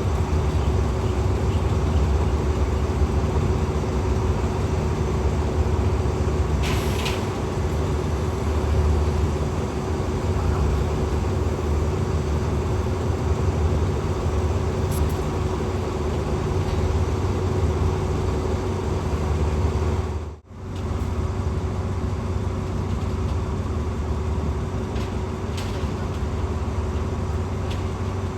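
Diesel train engine running steadily with a deep rumble and a constant hum, and a short hiss about a quarter of the way in.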